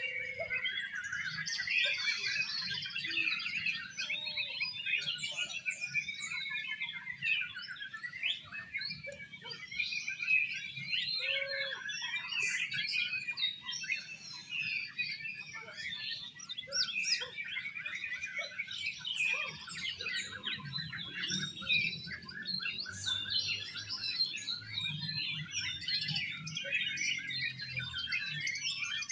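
Oriental magpie-robins (kacer) in a songbird contest, several birds singing at once in a dense, unbroken stream of overlapping chirps, whistles and trills.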